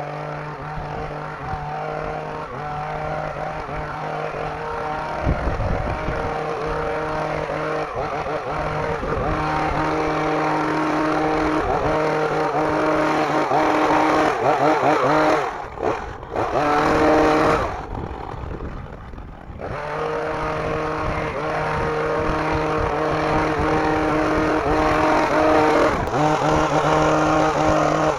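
Hedge trimmer motor running steadily while cutting bushes, easing off briefly twice past the middle before picking up again.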